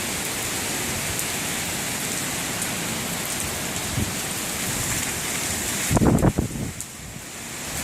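Hurricane wind and driving rain, a steady rushing noise. About six seconds in, a gust buffets the microphone with a few loud low thumps, then it eases briefly.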